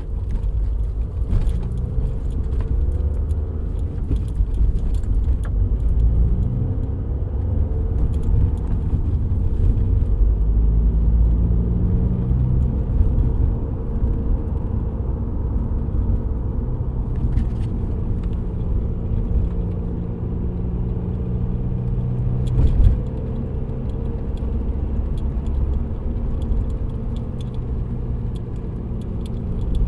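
Running engine and road rumble of a VW Golf GT TDI with the 2.0-litre BKD diesel, while driving, the engine note drifting slowly up and down. There are a few light rattles, and a single louder knock about two-thirds of the way through.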